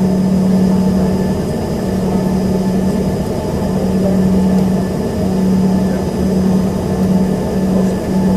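Inside the cabin of an Embraer ERJ-145XR: the rear-mounted Rolls-Royce AE 3007 turbofans running at a steady, low power, a loud even drone with a strong low hum that starts to waver on and off about halfway through.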